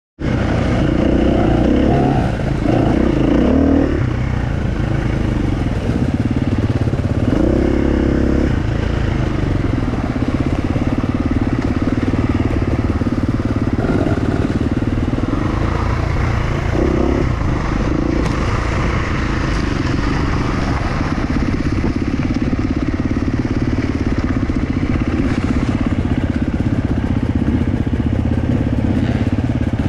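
Enduro dirt-bike engine running, its revs rising and falling in several bursts during the first nine seconds, then holding more steadily.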